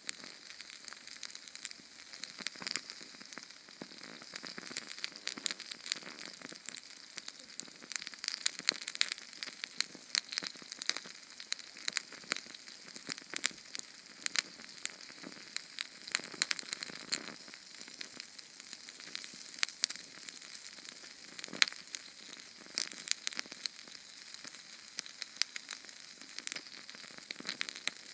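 Small Sterno canned-fuel flame crackling: a dense run of tiny pops and ticks over a soft hiss, with a few sharper pops standing out and no low rumble.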